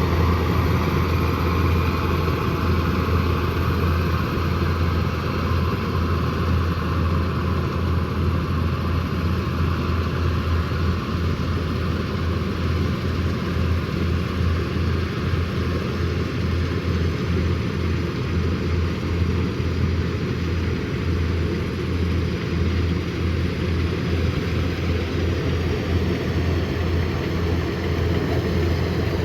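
Kubota combine harvester running steadily while harvesting rice, a constant engine drone with a strong low hum.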